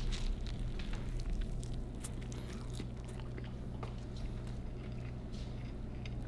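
Biting into and chewing a large cheese-crusted hot chicken breakfast burrito, heard close up as scattered small crisp clicks, a little louder at the first bite. A steady low hum runs underneath.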